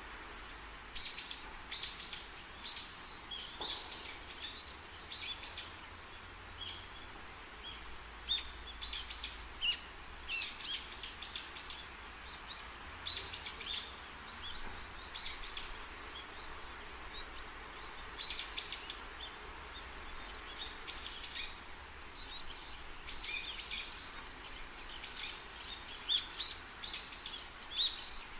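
Birds chirping: many short, high calls scattered throughout, over a steady background hiss.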